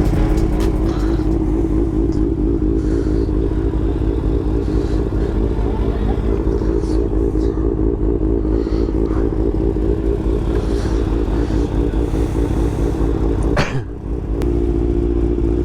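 Motorcycle engine running at a steady pace with a fast even flutter, broken off briefly about fourteen seconds in before carrying on.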